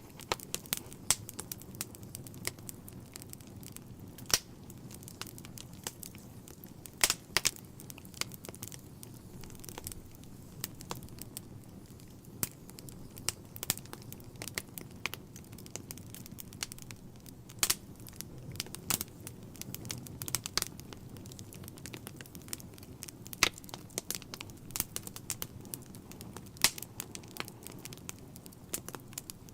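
Wood fire burning in a fireplace: a steady low rumble of flames with irregular crackles and a few sharp, louder pops.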